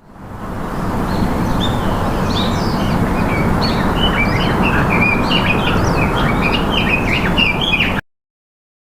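Many birds chirping rapidly and overlapping over a steady rushing noise, which fades in at the start; everything cuts off suddenly near the end.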